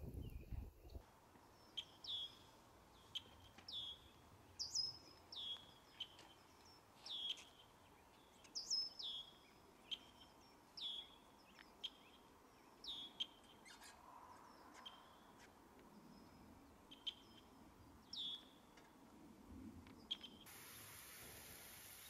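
A bird repeating one short call about once a second, each a quick downward slur ending in a brief note. Near the end it gives way to the steady hiss of lawn sprinklers spraying.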